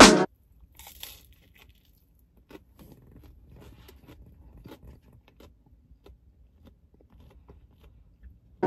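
A person chewing a bite of salad pizza, faint crunching of fresh greens and crust with scattered small crackles. Background music cuts off just after the start and comes back at the very end.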